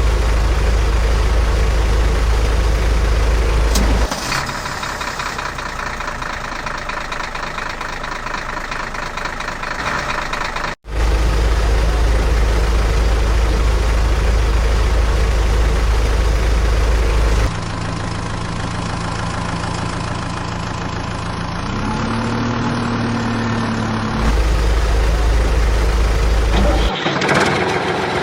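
Heavy vehicle engine sound effects running and idling in spliced sections that change abruptly, the deep rumble cutting in and out, with a brief total dropout about eleven seconds in.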